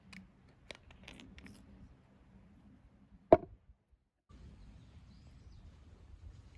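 A few light clicks, then a single sharp knock about three seconds in, followed after a brief cut by a low steady background hum.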